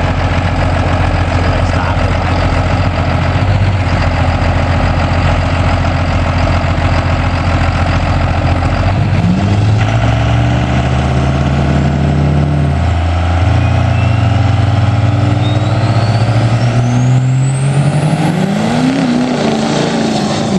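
Truck engine running loud and steady, then revved up about nine seconds in and held high, its pitch climbing again near the end. A thin whine rises steadily through the second half.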